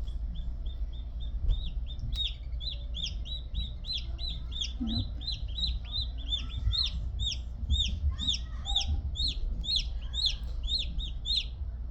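Newly hatched chicks peeping: a rapid, continuous run of short, high, falling peeps, about four a second, that thins out and stops near the end.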